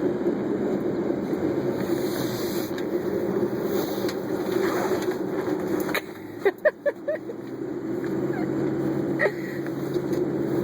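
Steady engine hum that drops in level about six seconds in, with a few short high squeaks just after.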